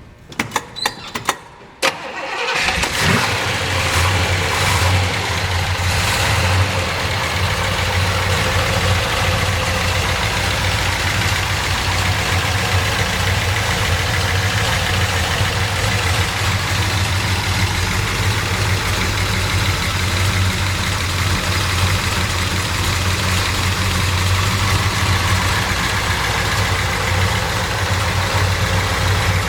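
1967 Chevrolet Chevelle SS's big-block V8 cranked on the starter for about a second and a half and catching. It revs a few times over the next few seconds, then settles into a steady, loud idle.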